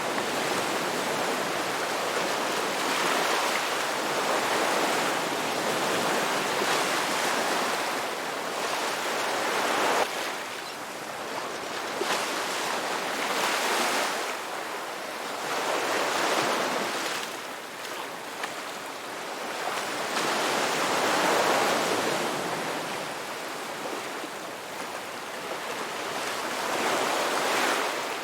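Ocean waves breaking and washing up, the surf swelling and falling away every few seconds.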